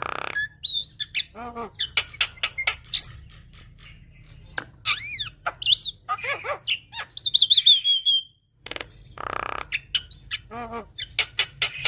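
Javan myna singing a varied song of sharp clicks, quick whistled notes that rise and fall, a warbling run that drops in pitch, and harsh squawky calls, with a brief pause about eight and a half seconds in.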